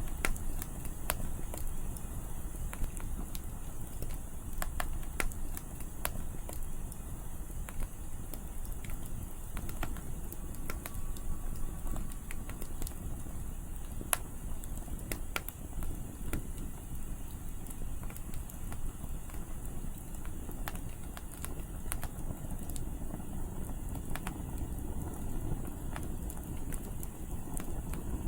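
Wood fire crackling, with scattered sharp pops at irregular intervals over a steady low rumble of wind.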